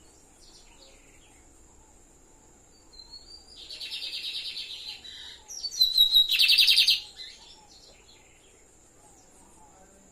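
Lined seedeater (bigodinho) singing two rapid, buzzy trilled phrases, the first about three seconds in and a louder second one starting with a short clear whistle just after. Both are song for tutoring a young bird.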